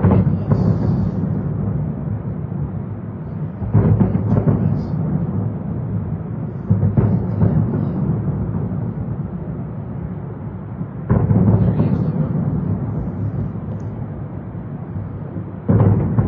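Aerial fireworks booming, five sharp reports a few seconds apart. Each is followed by a deep rumbling tail that dies away slowly.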